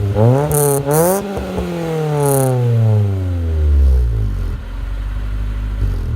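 Honda EF Civic's four-cylinder engine revved through its new custom exhaust: the revs climb in about a second, then fall slowly back to a steady idle.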